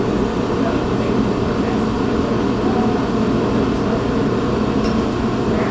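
A machine running steadily, a continuous loud drone with a faint steady hum in it.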